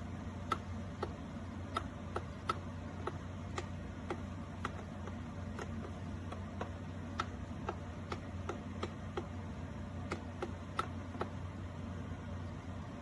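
Electric kettle heating: a steady low hum with light ticks and pings, about two a second at uneven intervals.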